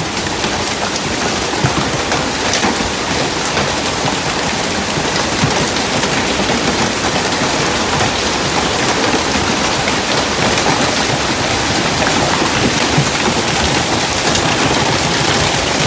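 Heavy hail falling with rain: a steady dense downpour speckled with countless sharp ticks of hailstones striking.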